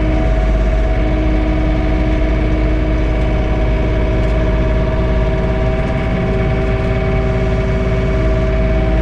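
John Deere 3046R tractor's three-cylinder diesel engine running steadily at about 1700 RPM while driving a PTO snowblower, heard from inside the closed cab.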